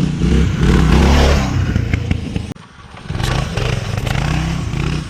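Doodlebug mini bike's single-cylinder Predator small engine running and revving. It drops off sharply about halfway through, then picks up again.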